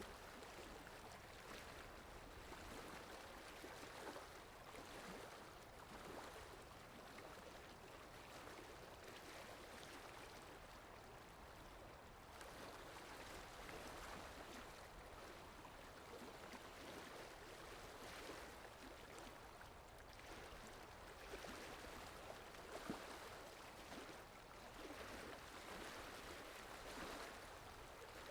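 Faint water sound effect: steady running, rippling water that swells and eases gently every few seconds.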